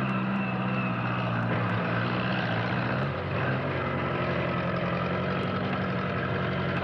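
A motor vehicle's engine running steadily, its note shifting slightly a couple of times.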